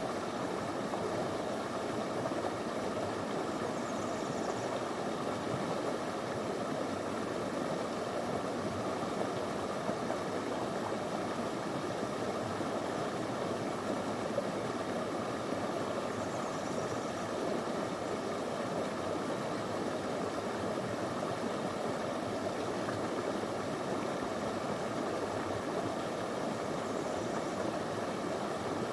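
Small river flowing over stones: a steady, even rush of water.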